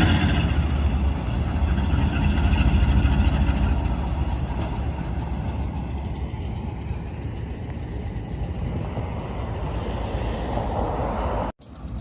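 Diesel locomotives rumbling past in a yard: Lehigh Railway's GE U-boats, which the filmer takes for U23Bs. The engine rumble is loudest at first and gradually fades, then the sound cuts out abruptly for a moment near the end.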